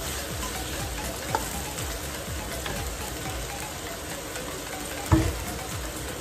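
Diced pork and onions sizzling steadily in a hot wok as they sauté toward browning, with a single sharp knock about five seconds in.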